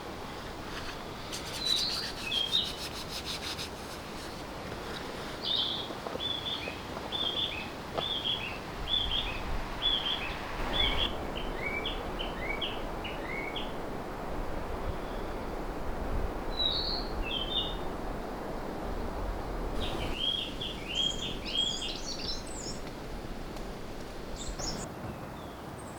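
Wild songbirds singing in a forest: a long run of quick, evenly repeated chirping notes, each dropping slightly in pitch, then further scattered chirps over a steady background hiss.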